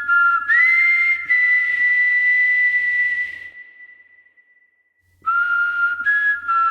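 Background music of high, steady whistle-like notes, two pitches held together. It fades out about three to four seconds in and starts again after a short gap near the end.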